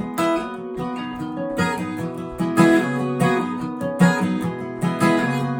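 Acoustic guitar playing an instrumental passage, strummed and picked chords with notes changing every half second or so.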